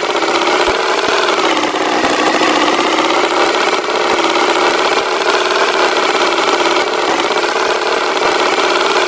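Tractor engine sound effect idling steadily, an even, unchanging hum.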